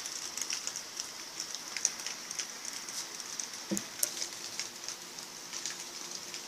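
Heavy rain falling and pattering on surfaces, a steady hiss full of sharp drop ticks.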